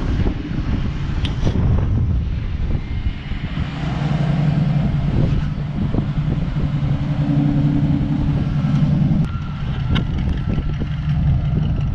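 1969 Ford Mustang's engine running as the car rolls down a trailer ramp and onto gravel, its note shifting a few times with the throttle. The engine is running again after the car sat unused for several years.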